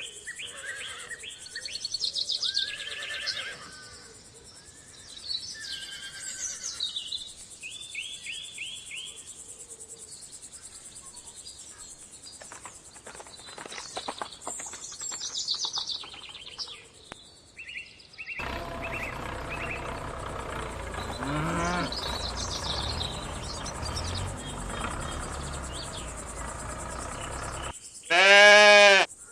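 Farm animal sounds: birds chirping for the first several seconds, then sheep or goats bleating over a steady background. Near the end comes one loud, drawn-out animal call about a second long.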